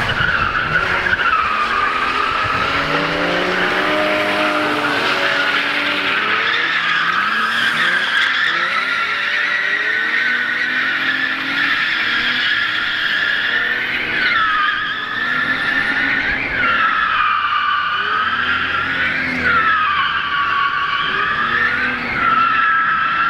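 Drift car's tyres squealing almost without a break as it slides, the squeal wavering and dipping in pitch several times in the second half, with the engine revving up and down underneath.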